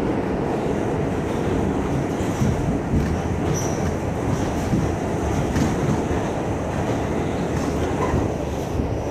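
R68 subway car running at speed through the tunnel: a steady rumble of wheels and traction motors with clicks over the rail joints, and a brief high wheel squeal about three and a half seconds in.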